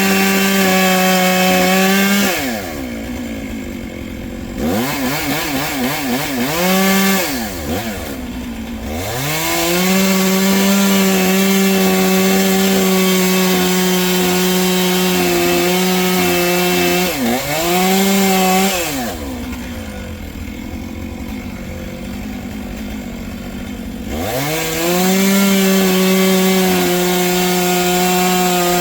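Two-stroke chainsaw running at full throttle in a cut through a bur oak log. Its engine note drops off four times, twice for several seconds, then revs back up into the cut.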